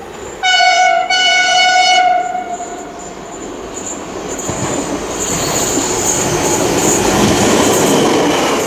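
Siemens Desiro electric multiple unit sounding its horn in two blasts, a short one then a longer one, then running toward and past with a rising rumble of wheels on rail.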